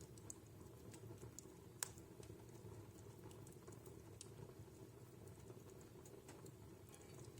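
Wood fire burning in a home fireplace: a faint low rumble with scattered small crackles of burning logs, and one sharper pop a little under two seconds in.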